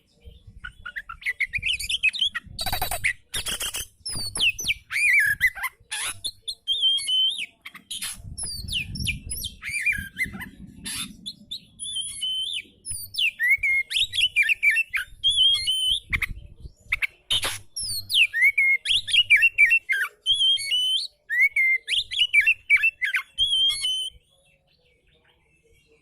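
Oriental magpie-robin (kacer) singing a varied, continuous song of rising and falling whistles, chirps and quick trills, with a few sharp clicks among them; the song breaks off shortly before the end.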